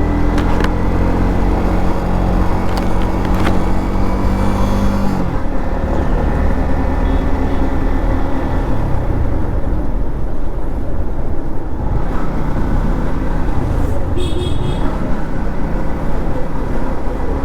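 Modified Yamaha MT-15's 155 cc single-cylinder engine running at a steady highway cruise, its revs dropping about five seconds in. Heavy wind and road noise follow.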